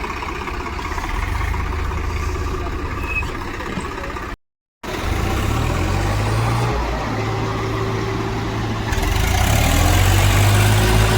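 Tractor diesel engines running with a heavy low rumble, getting louder over the last couple of seconds. The sound drops out for a split second near the middle.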